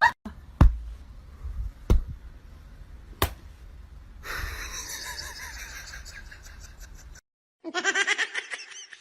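Three sharp knocks about a second apart, then a person laughing in quick pulses near the end.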